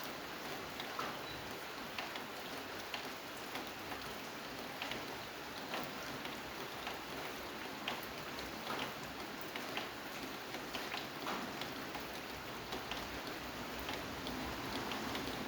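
Steady rain falling, with individual drops ticking sharply here and there.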